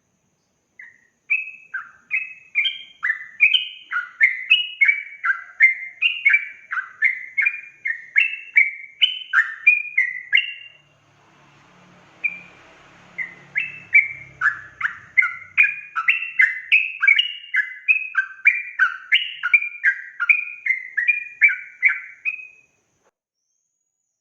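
Yellow-vented bulbul (trucukan) singing a long rapid run of bubbly, falling chirps, about two loud notes a second. It breaks off briefly near the middle, with only a faint low rumble, then resumes and stops shortly before the end.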